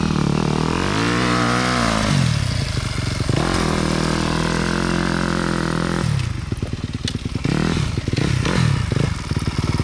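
Yamaha YZ250F four-stroke dirt bike engine revving up and back down about a second in, then holding a steady higher speed for a few seconds before dropping back to a lumpy idle.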